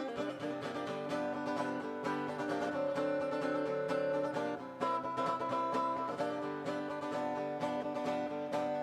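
Instrumental break in a live country song: acoustic guitar and other plucked strings playing steadily, with no singing.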